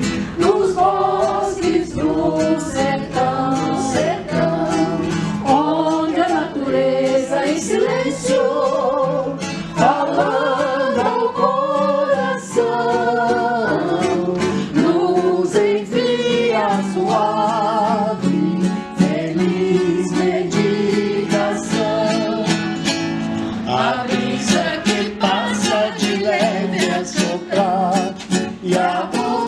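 Voices singing a slow devotional song with vibrato, accompanied by strummed acoustic guitar.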